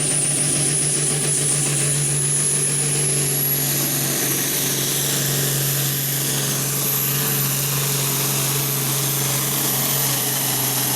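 International Harvester Farmall 1206 turbocharged six-cylinder diesel running flat out under load, pulling a sled. The engine note stays steady and loud, with a high turbo whistle that climbs slightly about three seconds in and then holds.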